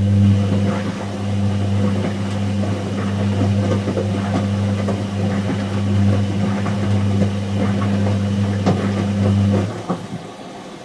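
Whirlpool AWG023 top-loading washing machine's pump running with a steady mains hum and water gurgling and clicking through it. The pump cuts off suddenly near the end.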